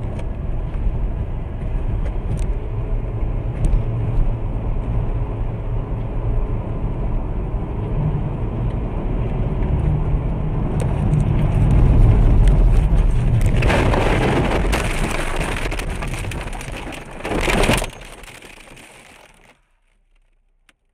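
Car driving, heard from inside the cabin through a dashcam: a steady low rumble of engine and road. About 14 seconds in, a loud harsh crash noise swells, with a sharp peak a few seconds later, then dies away.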